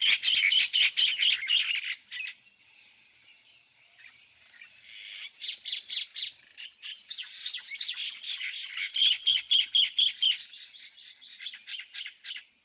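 Small birds chirping in rapid runs of high notes, with a quieter lull of a few seconds before the chirping picks up again.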